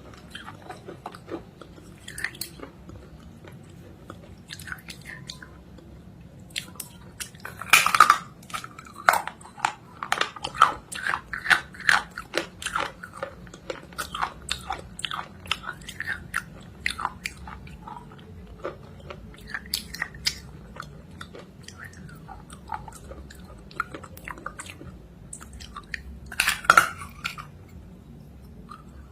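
Close-miked biting and chewing of something hard and crunchy: irregular crunches throughout, with the loudest bites about eight seconds in and again near the end.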